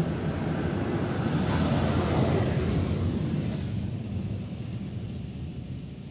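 Heard from inside the car, car wash equipment makes a loud rushing noise over the car. It swells to a peak about two seconds in and fades away by about four seconds in, over a steady low rumble.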